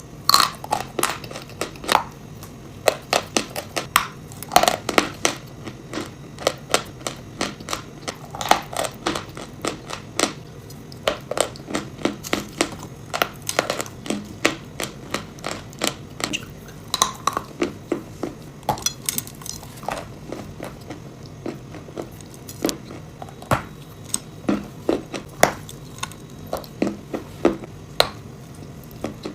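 Edible chalk and clay being bitten and chewed: a long run of irregular, sharp crunches and crackles, often several a second, over a faint low hum.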